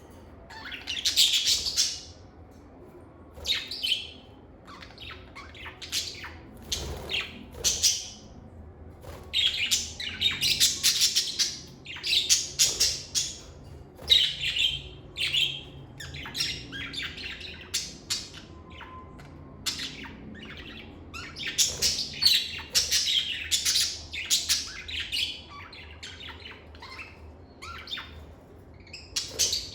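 Lovebirds chirping in repeated bursts of short, shrill, high-pitched calls, with brief pauses between the bursts.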